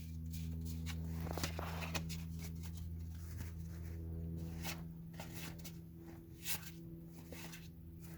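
Trading cards being handled and flipped through by hand, with scattered light rustles and ticks over a steady low hum.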